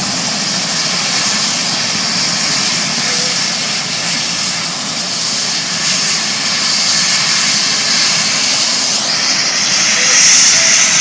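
Aircraft engine noise: a steady rushing that grows brighter and slightly louder about nine seconds in.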